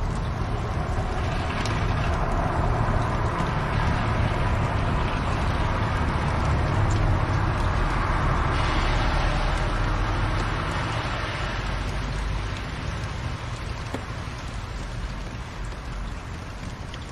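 Fire burning in a fireplace: a steady low rumble with a few faint crackles, easing off slightly over the last few seconds.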